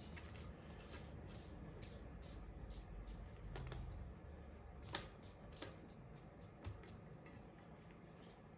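Faint scattered light clicks and scrapes of hand work while epoxy is mixed and spread for a glue-up, with one sharper click about five seconds in.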